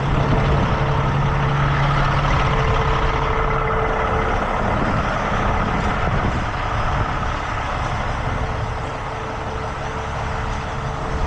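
Tow truck's diesel engine running steadily, with a steady mid-pitched whine over it that drops out midway and comes back near the end.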